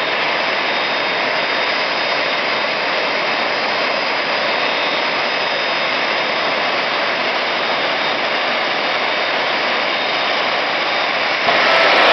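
Jet car's turbine engine running steadily with a rushing roar and a faint high whine, growing louder just before the end.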